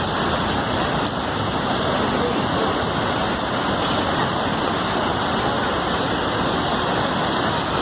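Floodwater rushing past in a steady, loud, unbroken rush of water.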